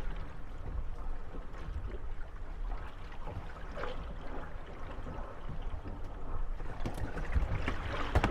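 Water lapping and sloshing around moored wooden gondolas rocking on small waves, with faint creaks and knocks from the hulls, and a few sharper knocks near the end.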